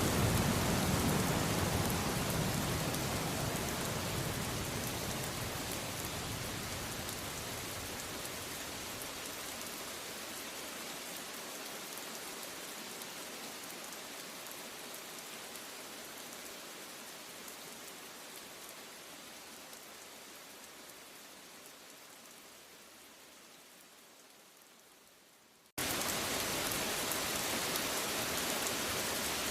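Steady rain noise, with a low thunder rumble dying away at the start, fading gradually quieter and quieter; near the end it cuts abruptly back in at full level, as the rain recording restarts.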